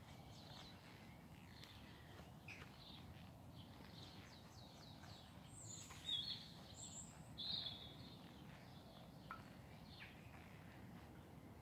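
Quiet outdoor background with small birds chirping faintly; a few short, high chirps stand out around the middle.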